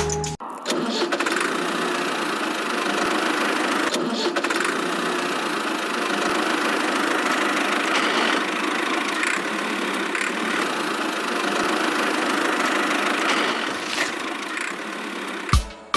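A small motor running steadily, starting abruptly about half a second in and cutting off just before the end.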